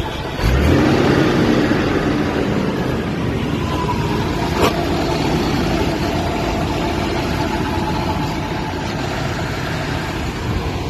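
Nissan GQ Patrol's RB30 straight-six engine idling steadily close by, with a short click a little before the middle.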